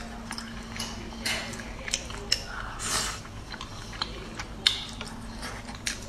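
Close mouth sounds of a person chewing soft braised fish, with scattered wet smacks and clicks. Chopsticks click against the plate, and a sharp click just under five seconds in is the loudest.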